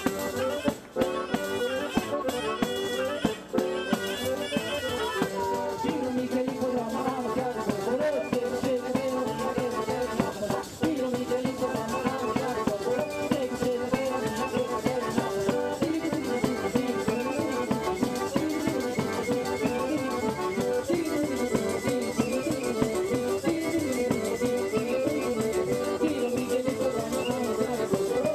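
Traditional world music played by a band, with a shaker rattling and a melody that slides up and down in pitch. Sharp percussive strikes crowd the first few seconds.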